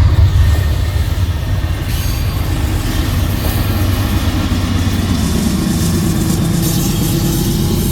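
A train passing: a loud, steady low rumble with a wash of rail and wheel noise, a little louder in the first half-second.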